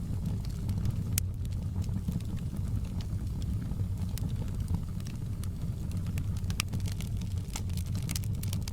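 Wood fire crackling: irregular sharp pops and snaps over a steady low rumble of the burning fire, with the pops coming thicker near the end.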